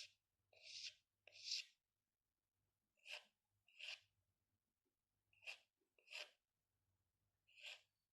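Short scratchy pen strokes on paper, about seven of them, mostly in quick pairs with short pauses between, over a faint low hum.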